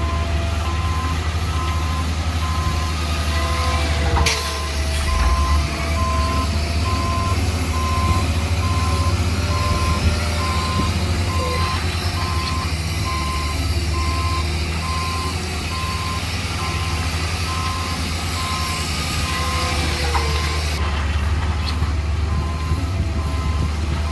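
Heavy diesel construction machinery running with a steady low drone while a reversing alarm beeps evenly and repeatedly.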